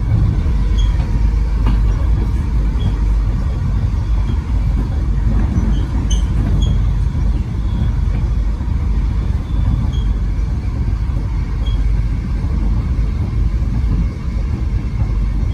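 Melbourne suburban electric train running along the track: a steady low rumble with faint, brief high-pitched squeaks dotted through it.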